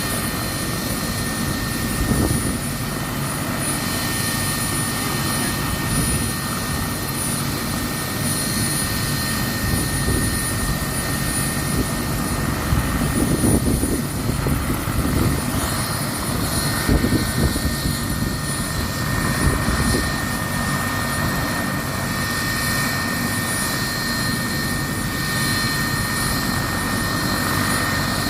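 Medical helicopter running steadily: a continuous rotor and turbine noise with a high, steady whine. Wind gusts buffet the microphone in a low, uneven rumble.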